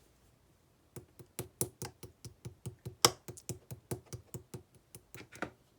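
Pink clear slime being pressed and squished by hand, giving a quick run of crisp, sticky clicks and pops, about five a second, starting about a second in.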